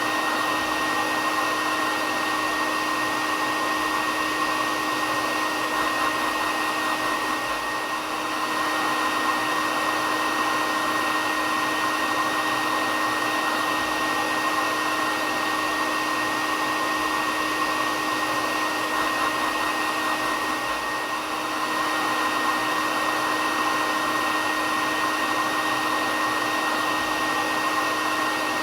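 Hair dryer running steadily: a continuous rushing airflow with a steady motor whine, dipping slightly in level twice.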